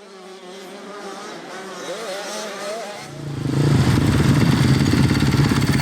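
Motocross bikes racing: several engines revving with wavering pitch. About three seconds in, a much louder, low, rapidly pulsing engine note takes over as one bike comes close.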